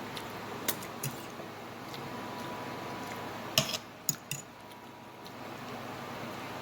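Cutlery clinking against a dish during a meal: a handful of short, sharp clicks, the loudest about three and a half seconds in.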